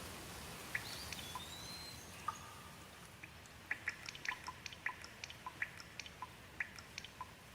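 Steady hiss of light rain with single water drops dripping, growing into a quick irregular patter of drops from about halfway in. A brief high whistle sounds about a second in.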